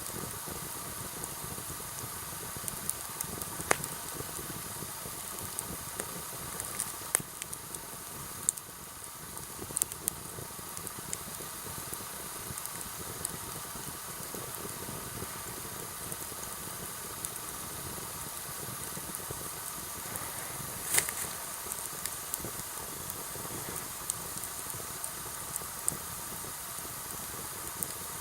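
Sawtooth oak (kunugi) firewood burning in a campfire: a steady hiss with scattered sharp crackles and pops, the loudest pop about 21 seconds in.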